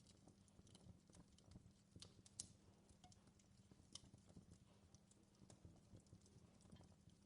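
Faint crackling of a wood fire in a fireplace: irregular small snaps and pops over a low steady hum, with a sharper pop about two and a half seconds in.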